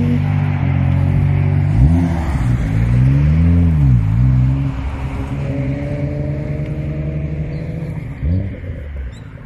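Nissan Skyline R34 GT-R's RB26DETT straight-six exhaust idling, with a quick throttle blip about two seconds in, then a rev that rises and falls over a couple of seconds, and another short blip near the end.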